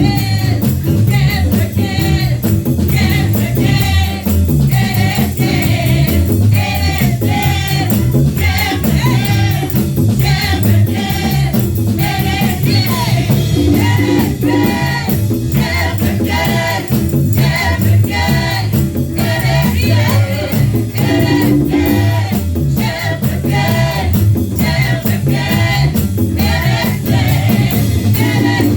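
Live gospel praise-and-worship music: a band with bass and percussion, including tambourine, accompanying group singing.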